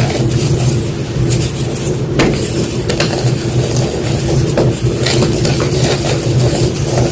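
White gym chalk being crushed, giving irregular crisp crunches and crackles. A steady low hum runs under them.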